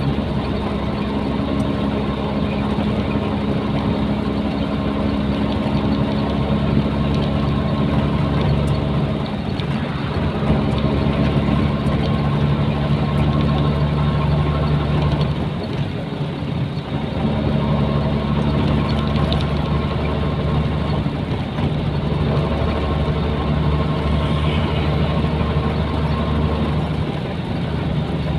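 Nissan Diesel truck's diesel engine running steadily under way, its note dipping and breaking off briefly a few times.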